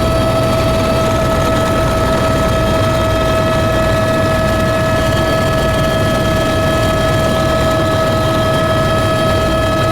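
Tour aircraft's engines running in a steady drone, with a constant whine over a low rumble.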